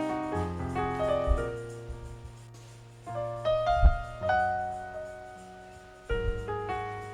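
Slow piano or keyboard chords, struck every second or two and left to ring out and fade. A couple of low thumps fall in between.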